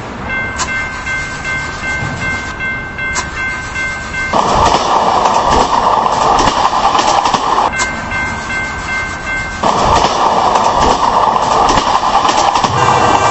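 Railway train passing: loud rushing and rumbling of the cars in two long stretches, with steady high ringing tones before each.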